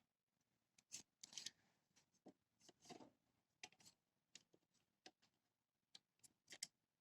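Faint handling noises: scattered light clicks and short rubbing scrapes at an uneven pace, with no machine running.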